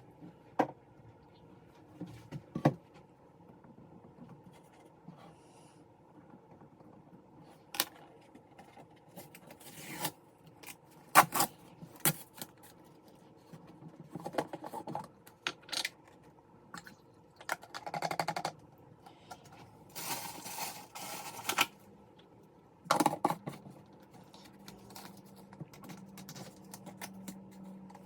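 Small objects being handled on a work surface: irregular clicks, knocks and scrapes, with a longer scraping, rustling stretch about twenty seconds in.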